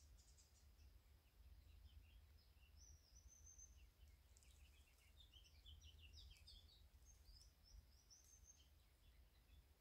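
Faint songbirds chirping and twittering in many short, high notes over a low steady rumble.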